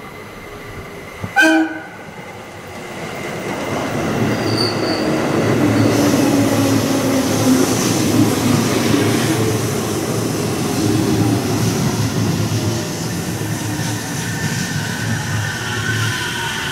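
JR Central Tokaido Line local electric train sounding a short horn blast about a second and a half in. It then runs in along the platform with a growing rumble of wheels and motors. Near the end a falling electric whine is heard as the train slows.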